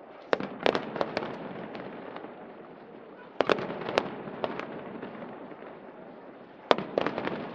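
Aerial fireworks shells bursting in three volleys about three seconds apart. Each volley is a sharp bang followed by several quicker pops.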